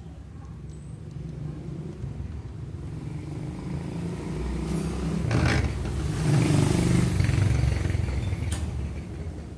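Motorcycle engine running, its revs swelling about halfway through and easing back down near the end, with a sharp click shortly before the end.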